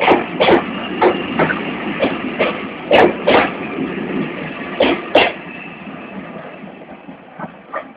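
GWR King class four-cylinder steam locomotive 6023 pulling away, its exhaust chuffing in loud, uneven beats about twice a second over a steady hiss. The beats fade after about five seconds as it draws away.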